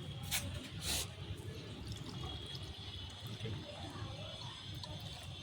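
Chai heating in a pot over a wood fire: faint liquid sounds over a low, even rumble, with a couple of sharp crackles in the first second.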